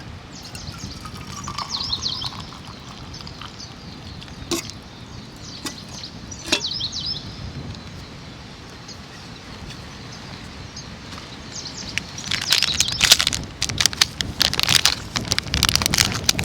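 Birds chirping twice over a steady outdoor background hiss, with a couple of sharp clicks; near the end comes a loud, dense run of crackles and clicks.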